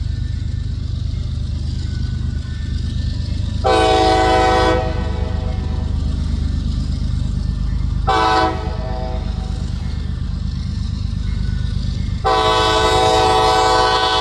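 Diesel freight locomotive's air horn sounding three blasts, long, short, then long, over the steady low rumble of the passing train: the pattern of a grade-crossing horn signal.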